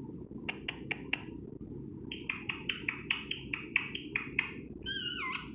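Pet parrot vocalising: a few short clicks, then a quick run of about a dozen chirps, ending in one falling squawk.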